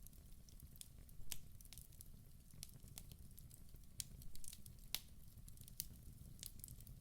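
Wood fire burning in a fireplace: a low steady rumble of flames with irregular sharp crackles and pops from the burning wood, a few louder pops among them.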